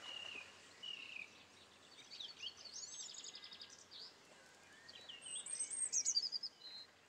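A songbird singing over faint outdoor hiss: short, high, falling whistles, then quick twittering trills that fade out near the end.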